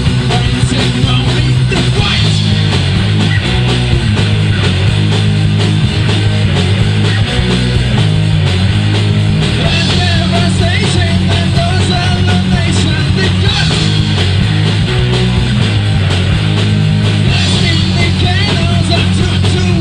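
Heavy metal band playing loudly: distorted electric guitars over a pounding bass line and drums.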